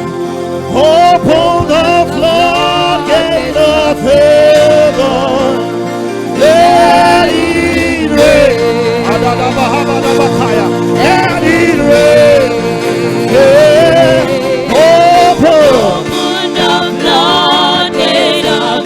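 Gospel worship song: a lead voice singing long held, wavering phrases over steady instrumental accompaniment.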